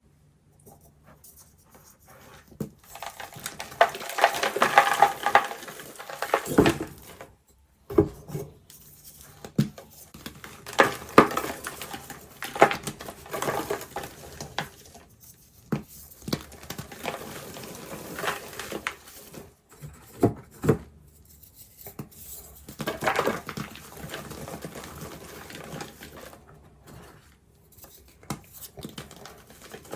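Reformed gym chalk being crushed and crumbled, a crunching crackle broken by sharp snaps and clicks, in uneven bursts.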